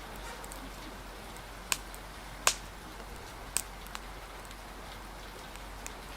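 Steady hiss of rain and wind with a crackling fire giving a few sharp pops, the loudest about two and a half seconds in.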